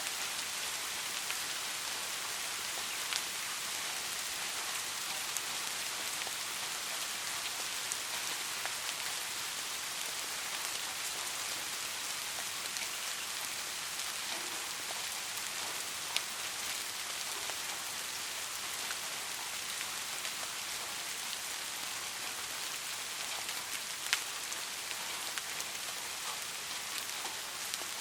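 Steady rain falling, a dense even hiss with occasional sharper drop ticks standing out, the loudest one near the end.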